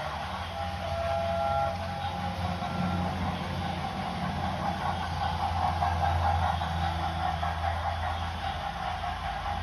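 Train running: a steady low rumble under an even hiss.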